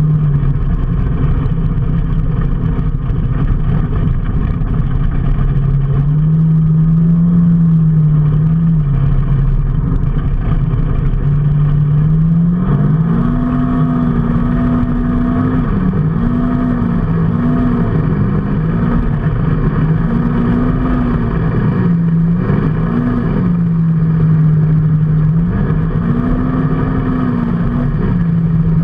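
A vehicle engine running on the road, its pitch rising and falling repeatedly with the throttle over a steady rush of road noise.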